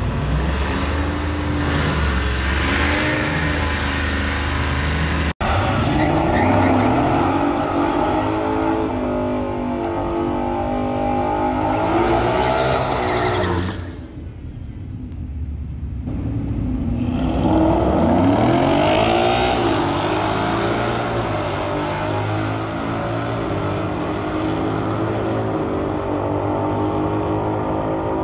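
Performance car engines revving and accelerating hard, the pitch climbing and dropping again and again as they rev and shift, with an abrupt break about five seconds in and a lull a little past the middle before another engine climbs in pitch.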